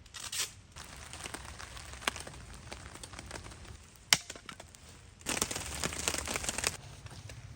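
Scattered small clicks and light rustling, one sharp crack about four seconds in, then about a second and a half of dense crinkling rustle.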